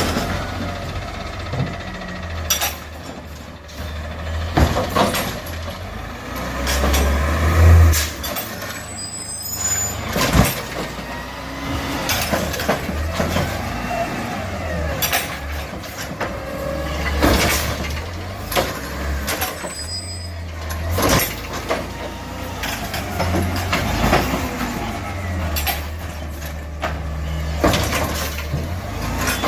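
Garbage truck working a collection route: its diesel engine running and revving up and down, with repeated clunks and knocks and hisses of air from the brakes.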